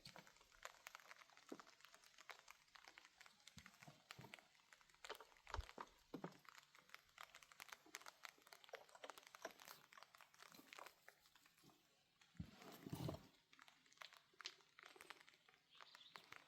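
Faint, irregular crunching and rustling made of many small clicks, with a slightly louder burst about twelve seconds in.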